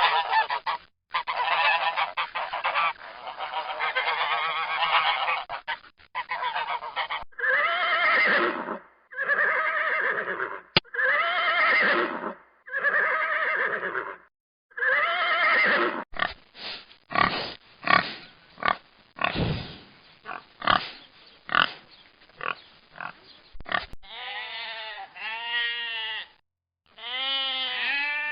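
A string of farm animal calls: several seconds of geese honking, then a run of repeated rising-and-falling calls and short sharp calls, with sheep bleating near the end.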